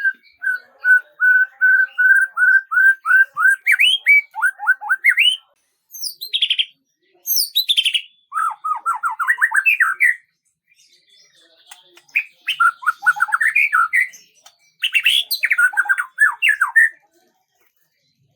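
A songbird singing close to the microphone. It opens with a run of evenly repeated clear notes, about three a second, then breaks into phrases of fast rising and falling notes, delivered in several bursts with brief pauses between them.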